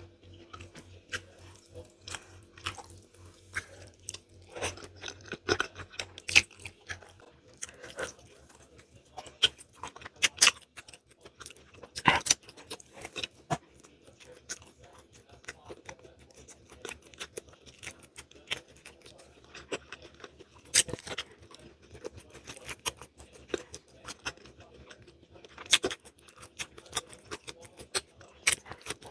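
Close-up chewing and wet mouth sounds of someone eating soft saba banana by hand, with sharp lip smacks and clicks scattered throughout and a few louder ones.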